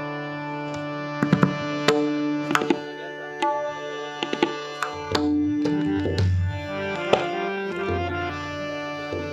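Instrumental Indian devotional music: irregular tabla strokes over steady held melodic notes, with deeper bass drum tones joining about halfway through.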